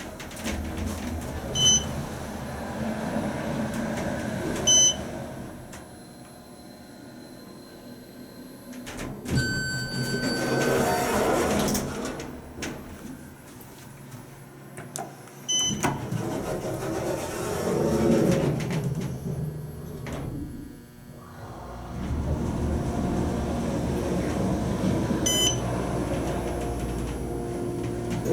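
Otis hydraulic elevator in use: a short high electronic beep sounds four times, and a longer chime-like tone comes in about nine seconds in. A low steady hum starts a few seconds before the end.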